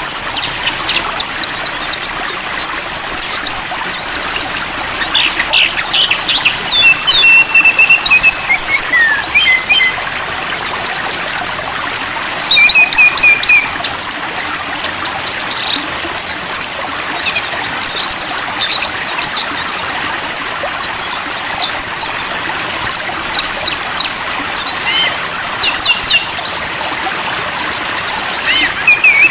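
Songbirds chirping and whistling in quick varied phrases over a steady trickle of running water.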